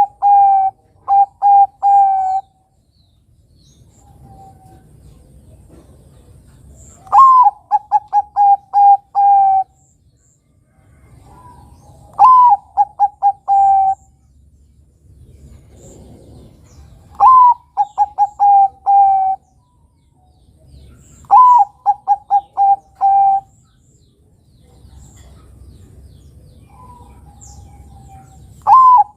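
Bangkok-type zebra dove (perkutut) singing its cooing song. Each phrase opens with a higher rising note and runs into a quick string of short coos, repeated about every five seconds.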